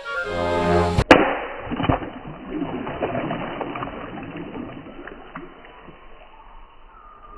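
Flute music ends about a second in with a sharp click. Water splashing and sloshing follows, loudest at first and fading away.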